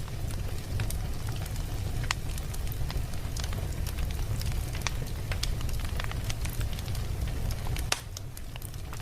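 Fire burning in a fireplace: irregular crackles and sharp pops over a steady low rumble, a little quieter after a strong pop near the end.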